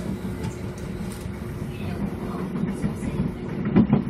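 Electric commuter train running, heard from aboard: a steady low rumble of wheels on rails with a faint steady tone. A cluster of clicks from wheels passing over rail joints comes near the end.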